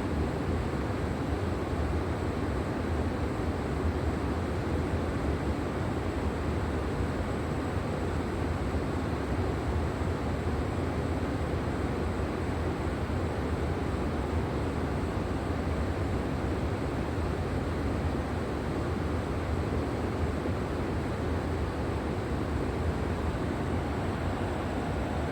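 River water flowing: a steady, low rushing without a break.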